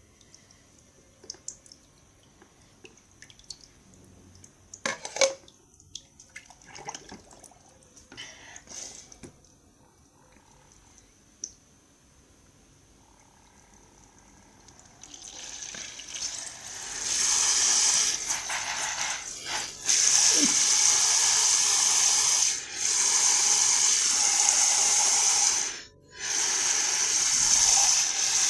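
Water from a portable camping shower's handheld head. The first half is quiet, with scattered drips and small clicks. About halfway in a loud, steady spray of water builds up and holds, breaking off briefly three times.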